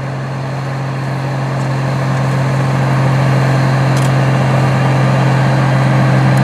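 Case IH 1680 combine running, a steady low engine-and-machinery hum that grows louder over the first three seconds as the combine approaches, then holds.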